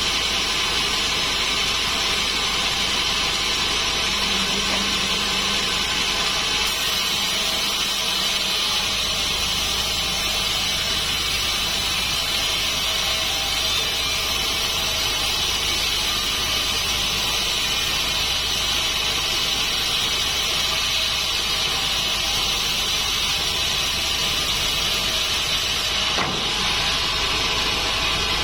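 Large sawmill band saw running steadily through a dry acacia log, a loud constant noise with a strong high hiss.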